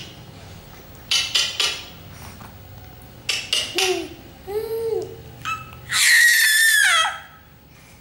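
Pet bird calling: groups of short sharp chirps, a few low warbling whistles, then a loud harsh screech lasting about a second that ends on a falling note.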